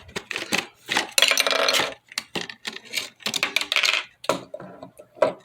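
Toy packaging being torn open by hand: cardboard and plastic crackling and ripping in quick, irregular clicks, with one louder tear lasting under a second about a second in.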